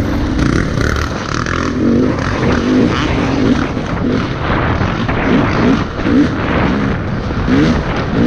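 Dirt bike engine revving up and down again and again while riding, the pitch rising and dropping every second or so over a dense low rumble.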